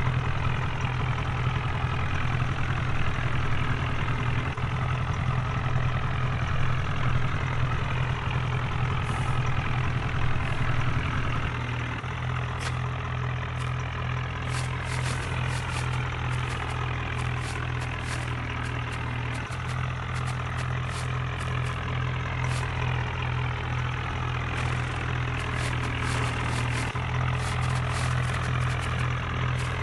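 HMT tractor's diesel engine idling steadily, its note settling a little lower and quieter about twelve seconds in, with scattered short sharp clicks over it.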